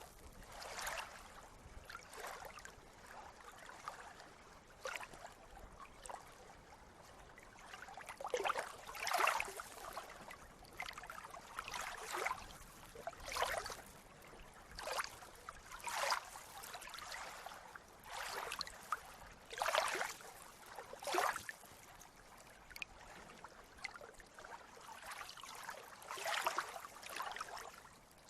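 Water lapping and splashing in short, irregular sloshes every second or two over a quiet hiss, like small sea waves washing against the shore.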